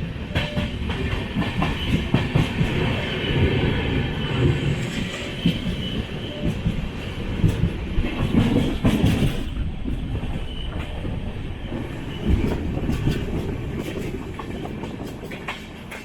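Express train running at speed: a steady rumble of wheels on rail with irregular clicks and clatter over the track joints, easing slightly toward the end.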